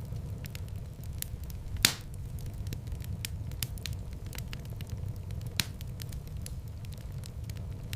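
Wood fire in a fireplace burning with a steady low rumble of flames and constant sharp crackles, with two louder pops, about two seconds in and again near six seconds.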